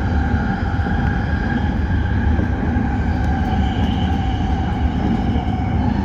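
Toyo Rapid Railway 2000 series electric train running at speed, a steady rumble of wheels on rail with a few faint steady tones above it, heard from inside the front car.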